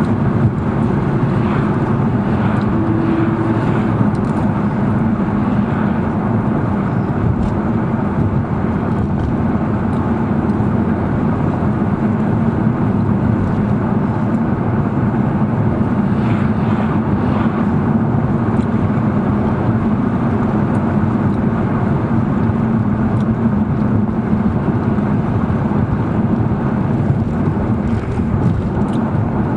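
Audi R8 V10 Plus's 5.2-litre V10 running at a steady, even engine speed while driving, with road noise underneath. A short higher tone joins briefly about three seconds in.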